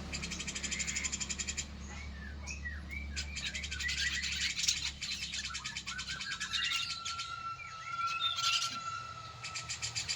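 Cucak jenggot (grey-cheeked bulbul) calling. A fast, evenly repeating high chatter gives way to a run of short chirps, then a long steady whistled note, and the chatter returns near the end.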